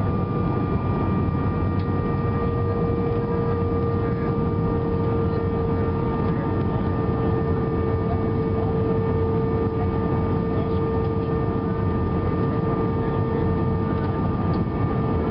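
Airbus A320 cabin noise heard from a seat over the wing: a steady rumble of jet engines and airflow, with a steady whine held at one pitch.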